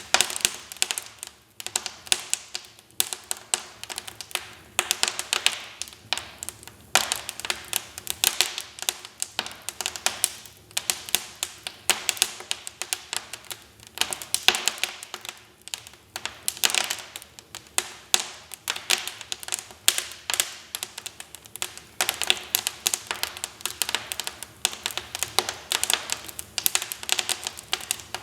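Wood fire crackling in a fireplace: dense, irregular pops and snaps coming in clusters, with short lulls between them.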